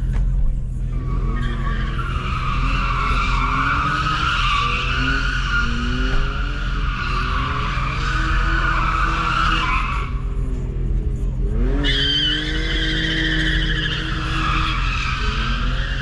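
Car tyres squealing in a long, continuous slide while the engine is held at high revs with its pitch wavering up and down. The squeal breaks off for about two seconds near two-thirds of the way through, then comes back at a higher pitch.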